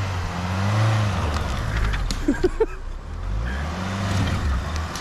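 Ford Kuga SUV engine revving up and easing off twice as the car crawls over a rutted dirt track, with a few short calls about halfway through.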